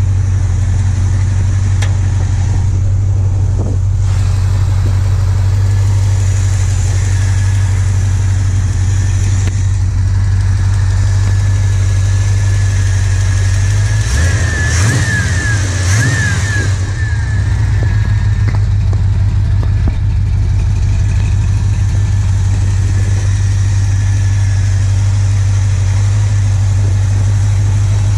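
AMC 360 V8 of a 1979 Jeep CJ7 idling steadily, revved briefly by hand at the carburetor about halfway through before settling back to idle.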